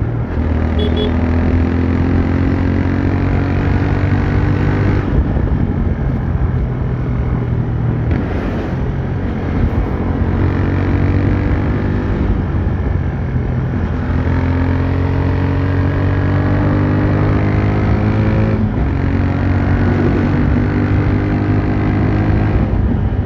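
TVS Raider 125's single-cylinder engine and exhaust running under way. The engine note climbs steadily and then drops back several times, with road and wind noise underneath.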